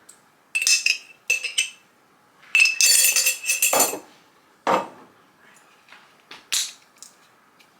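A metal utensil clinking and scraping against a glass container in a few bursts, each with a ringing tone, as seasoning is worked out of it; a single dull knock falls about halfway through, with lighter taps near the end.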